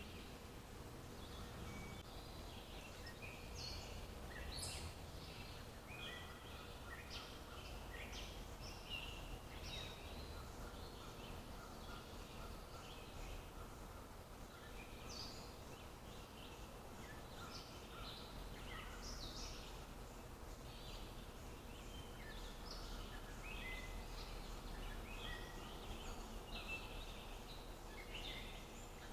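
Wild birds chirping and calling in many short, high notes throughout, faint against a steady low background rumble.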